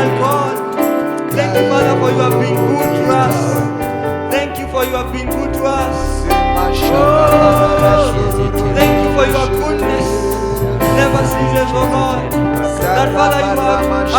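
Live gospel worship music: a band with a steady drum beat and keyboard, with singing over it; a bass line comes in about five seconds in.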